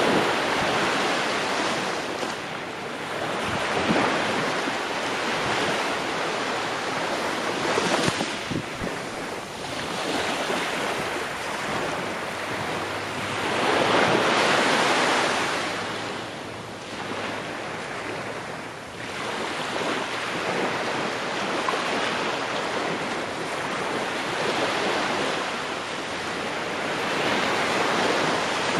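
Ocean waves breaking and washing on the shore, each surge swelling and fading every few seconds, the strongest about halfway through.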